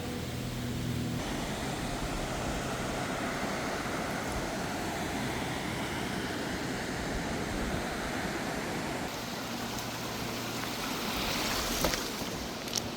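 Rushing river water, a steady unbroken noise, with a few sharp clicks near the end.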